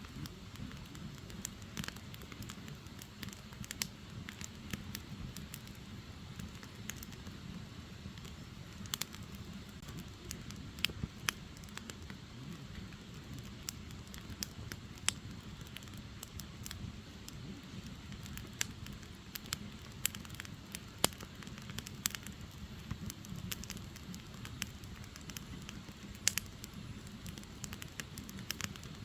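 Firewood logs burning in an open fire: a steady low rumble from the flames with irregular sharp crackles and pops, a few of them louder.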